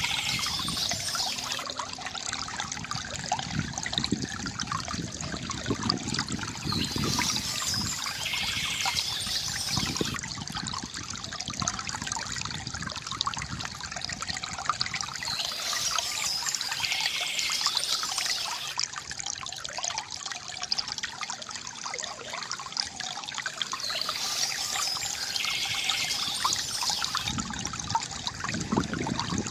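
Water trickling and gurgling from a bamboo fountain, a steady splashing pour, with a brighter high-pitched flurry that comes back about every nine seconds.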